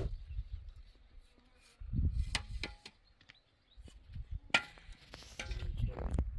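Scattered sharp knocks and low thuds from manual work, a few separate strikes about two and a half and four and a half seconds in.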